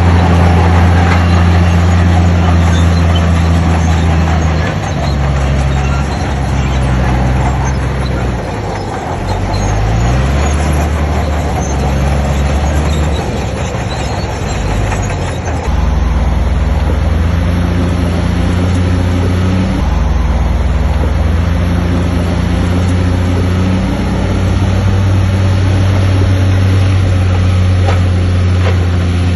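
Bulldozer's heavy diesel engine working, its pitch sagging and then climbing back up about ten seconds in, then running steadily.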